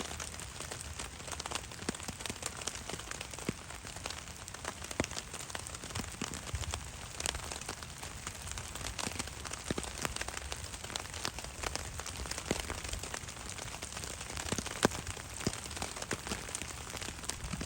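Steady rain with many separate drops tapping close by, and one sharper tap a little before the end.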